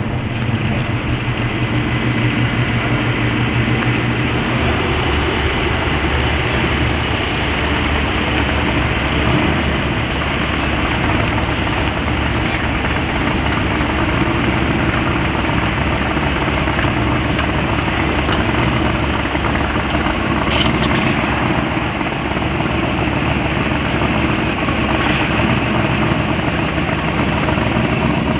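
Car engines running at low speed as cars line up and roll in, a steady engine rumble.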